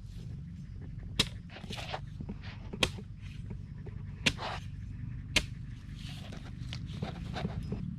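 A series of sharp knocks or cracks at irregular intervals, roughly one every second or so, over a low steady hum.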